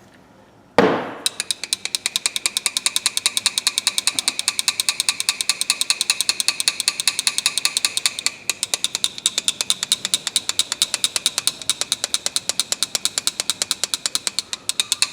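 A sudden sound about a second in, then rapid, even mechanical clicking at about seven clicks a second.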